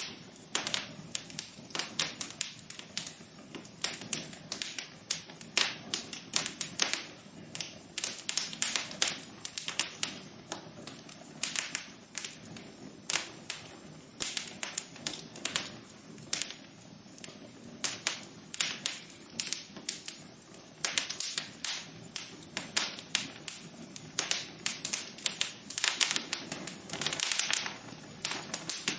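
Wood fire in a fireplace crackling: irregular sharp pops and snaps, several a second, over a soft steady rush of the flames.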